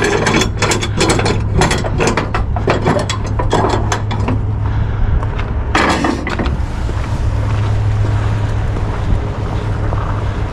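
Ratchet pawl of a flatbed cargo-strap winch clicking rapidly as the strap is tightened down over the load, then a single louder rasp about six seconds in. A steady low hum runs underneath.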